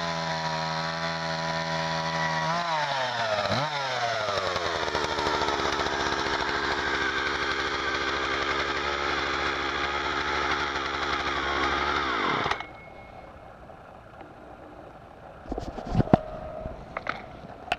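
Husqvarna 141's 40.2 cc two-stroke chainsaw engine running at a steady speed. About three and a half seconds in it dips and revs back up, holds high revs, then is switched off about twelve and a half seconds in, its pitch falling as it stops. A few sharp knocks near the end.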